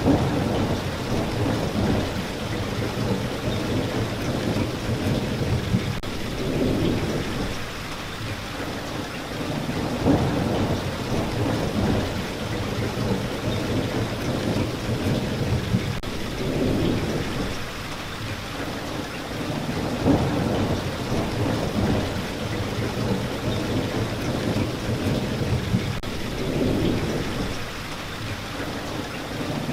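Steady rain, with low rolling thunder rumbles swelling and fading every few seconds.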